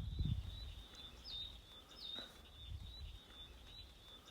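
Quiet forest ambience: a steady thin high-pitched note with a few short bird chirps over it, and a low rumble underneath.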